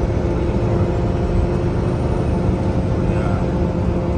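Semi-truck engine and road noise while driving: a steady low rumble with a steady hum running through it.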